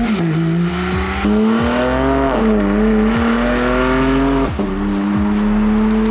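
Supercar engine accelerating hard through the gears: the pitch climbs, then drops sharply at each upshift, three times.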